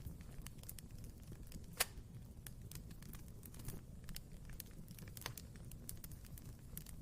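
Wood fire crackling in a fireplace: irregular small snaps and ticks over a low steady rumble of the flames, with one loud pop a little under two seconds in and another sharper pop around five seconds in.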